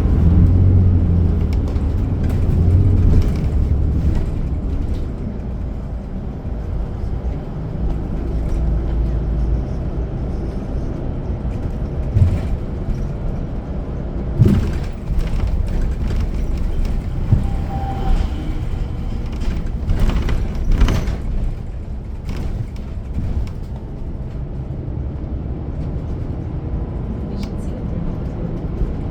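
City bus in motion, heard from inside the cabin: a low engine and road rumble, heaviest in the first few seconds, with scattered knocks and rattles.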